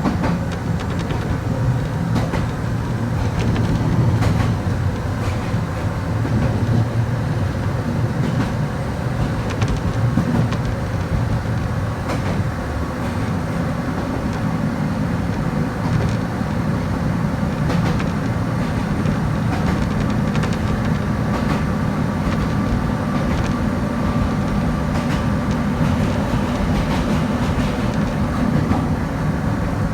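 Kobe Electric Railway electric train running: a steady low rumble with occasional clicks of the wheels over the rails, and a faint steady motor whine in the latter half.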